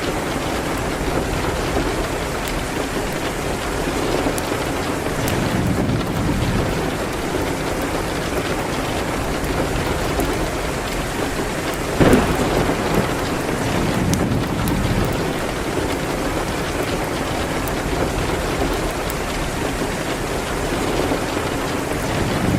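Steady rain falling, with low rolling rumbles of thunder that swell and fade, faint crackling from a wood fire, and one sharp loud crack about halfway through.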